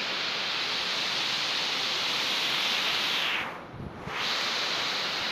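Steady hiss of heavy rain, with a short dip in level about three and a half seconds in.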